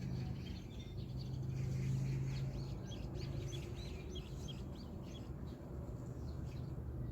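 Small songbirds chirping in quick, short notes, over a steady low hum.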